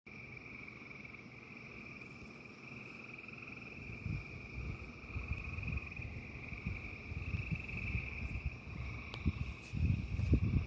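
A chorus of frogs trilling in a steady, high, unbroken drone. A low, uneven rumbling grows in beneath it from about four seconds in.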